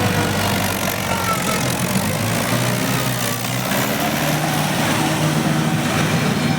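Tractor diesel engine running steadily at a low, even speed, with voices in the background.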